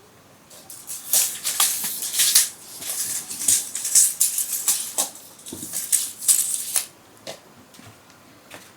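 Dry rattling and rustling in quick, uneven surges with sharp clicks, lasting about six seconds, then a few scattered clicks.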